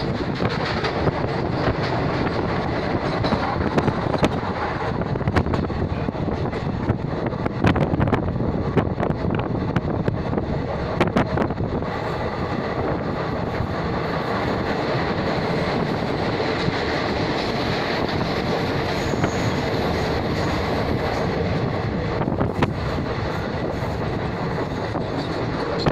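Moving train heard from inside the carriage at an open window: a steady rumble of wheels on the rails, with scattered sharp clacks.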